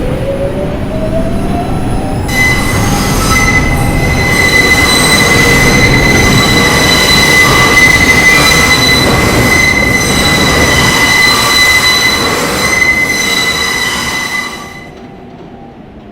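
R142 subway train pulling out. Its traction motor whine rises in pitch for the first two seconds, then a loud, steady, high-pitched wheel squeal with overtones holds for about twelve seconds. Near the end the sound drops away sharply.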